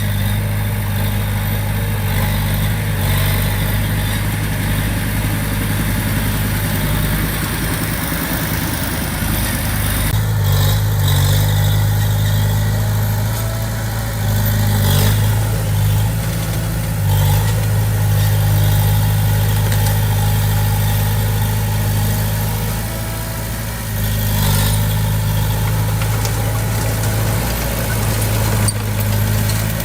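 Diesel engine of a small crawler bulldozer running steadily at a low, even pitch, with a few short knocks along the way.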